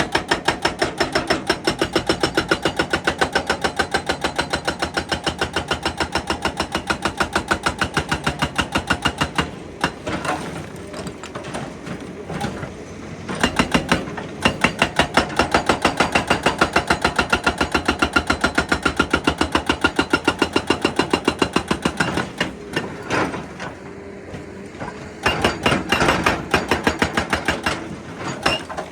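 Excavator-mounted hydraulic breaker hammering rock in long runs of rapid, evenly spaced blows. It pauses twice, about ten seconds in and again a little after twenty seconds, leaving the machine's engine running underneath.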